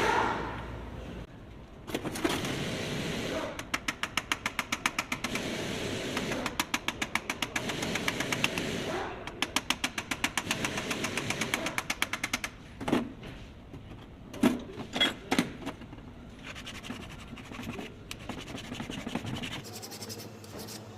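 A hammer tapping on a rivet in a car's inside door handle mechanism, peening it over so it holds tighter. The light taps come quickly and evenly, about four or five a second, in long runs. They are followed by a few louder single knocks.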